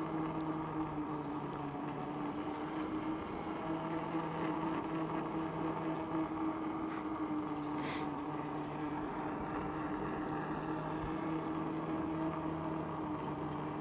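An engine running at a steady speed, its pitch drifting only slightly, with one brief sharp tick about eight seconds in.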